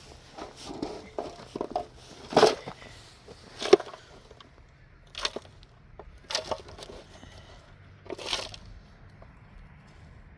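Digging in earth and stones: a handful of irregular crunching scrapes and knocks, the sharpest about two and a half and nearly four seconds in.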